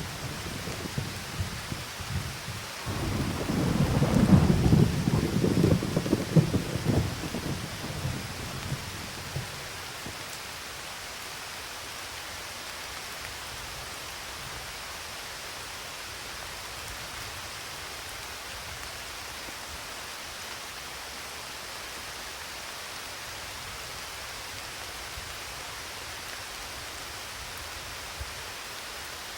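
A thunderclap rumbling and crackling over steady rain, loudest about four seconds in and dying away by about ten seconds, after which only the even hiss of falling rain remains.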